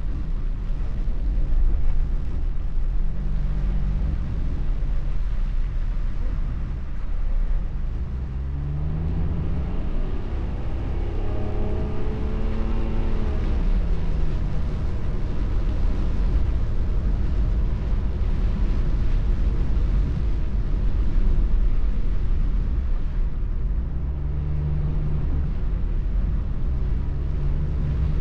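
Inside a moving car on a wet road: steady low road rumble and tyre hiss with the engine note. The engine note rises about eight seconds in, holds, and falls away around fourteen seconds.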